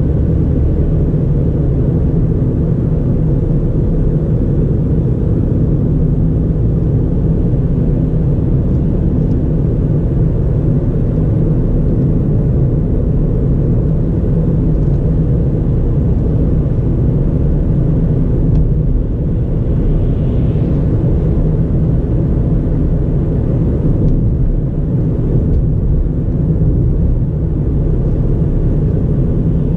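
2009 Ford Fiesta 1.4's four-cylinder engine and tyre noise while driving at a steady pace, a low, even rumble.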